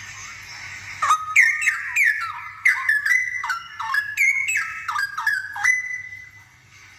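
Straw-headed bulbul singing a loud, bubbling phrase of rapid sweeping whistled notes, starting about a second in and ending about five seconds later on a briefly held whistle.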